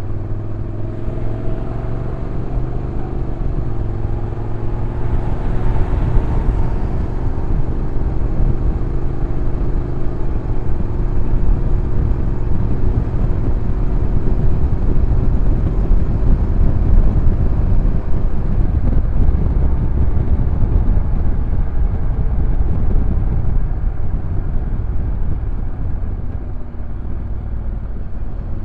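Honda NC750X DCT's parallel-twin engine running while the bike is ridden, heard from on board over a heavy low wind rumble on the microphone. The engine note rises over the first few seconds, holds steady, then sinks into the rumble after about 18 seconds.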